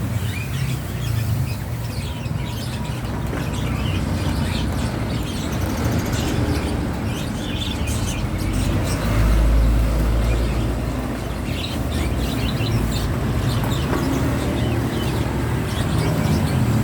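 Birds chirping and calling over a steady low rumble, which swells briefly about nine seconds in.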